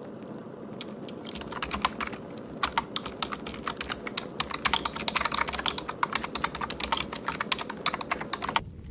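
Recorded wood fire crackling, with dense irregular pops and snaps over a steady hiss, played from a looping online fireplace ambience. The crackles thicken about a second and a half in, and the sound cuts off suddenly near the end.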